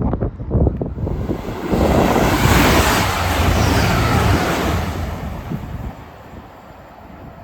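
A train passing through the station: a rush of noise with a low rumble that builds about a second in, peaks for a few seconds, then fades away, with wind buffeting the microphone.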